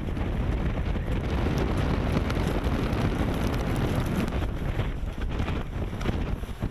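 Blizzard wind buffeting the microphone, a loud rough rumble with gusts.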